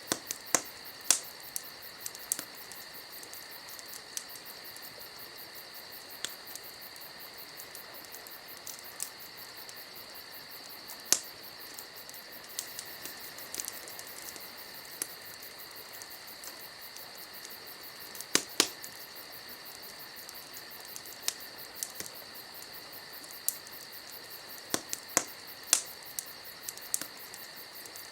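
Wood campfire crackling, with sharp irregular pops and snaps now and then, over a steady high-pitched trill.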